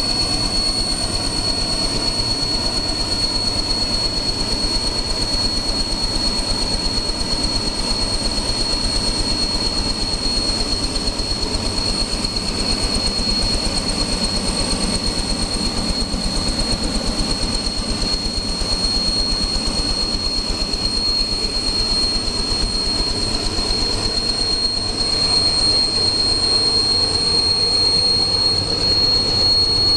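Helicopter running steadily in flight while crop spraying: a dense, fast-pulsing rotor and engine drone with a steady high-pitched whine over it.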